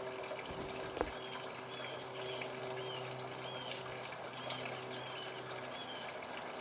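Birdbath water trickling steadily while a small bird gives a series of short, repeated chirps, with a single sharp click about a second in.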